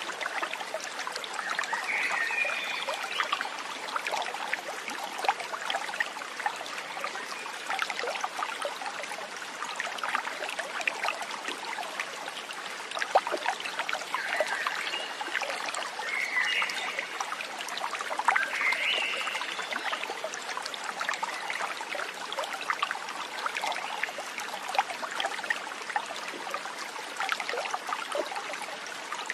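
Water trickling and splashing steadily in a small stream, with a few short animal calls, a frog or bird, standing out about two seconds in and again around the middle.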